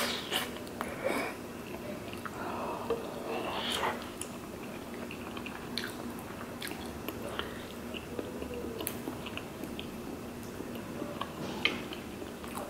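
Close-miked chewing of tteokbokki rice cakes with wet mouth sounds, and scattered light clicks of metal chopsticks and a spoon against the steel pan.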